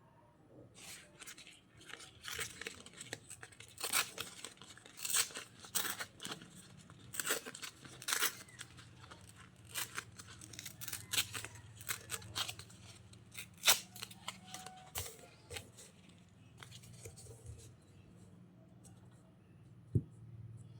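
Paper being torn by hand in a run of short, irregular rips for about fifteen seconds, over a faint steady low hum, with one sharp tap near the end.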